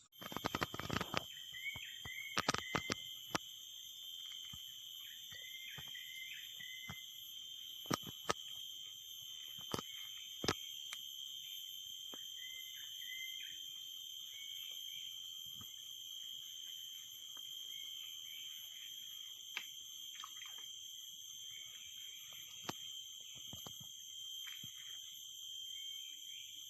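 Steady high-pitched drone of insects, with short chirping animal calls repeated in small groups and a few sharp knocks in the first half.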